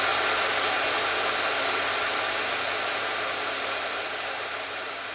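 Hair dryer running steadily: an even rushing hiss of blown air with a faint low hum, slowly fading down in level.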